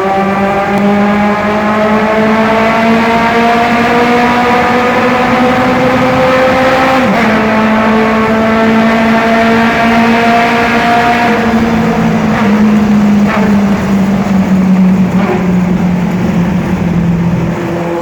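Air-cooled flat-four engine of a VW Fusca (Beetle) running hard in a tunnel: its note climbs steadily, drops sharply about seven seconds in, as at a gear change, then holds fairly steady.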